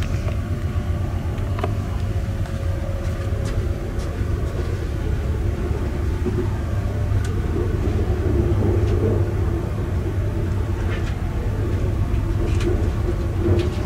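Passenger train running at speed, heard from inside the carriage: a steady rolling rumble of wheels on rail, with a few faint clicks scattered through.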